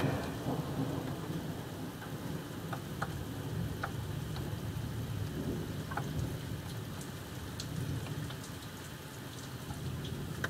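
Heavy rain pouring, with scattered drops ticking sharply on a nearby surface, under a continuous low rumble of rolling thunder that eases slightly near the end.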